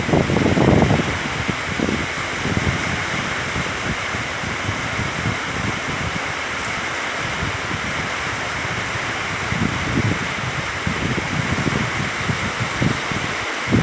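Steady rushing hiss of heavy storm rain and running rainwater, with gusts of wind buffeting the microphone, strongest in the first second and again around ten seconds in.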